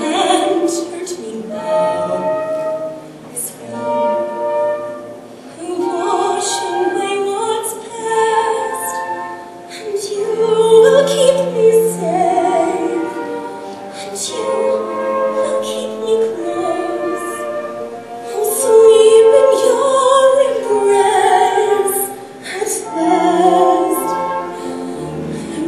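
A slow musical-theatre duet sung by a woman and a man, in sustained phrases that swell loudest about halfway through and again near the end.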